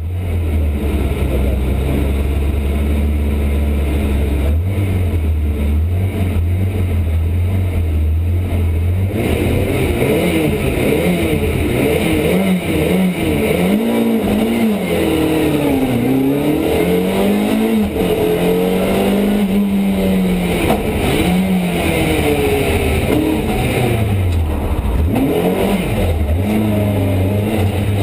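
Ford Escort Mk2's 2.4-litre Pinto four-cylinder engine, heard from inside the cabin: it holds a steady low note for about the first nine seconds, then is revved up and down repeatedly, the pitch rising and falling.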